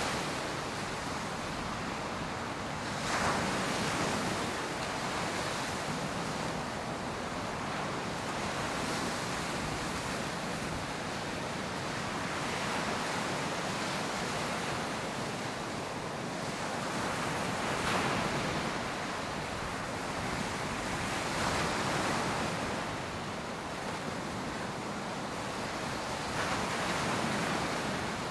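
Ocean surf washing onto the beach: a steady rush with waves breaking in swells every four to five seconds.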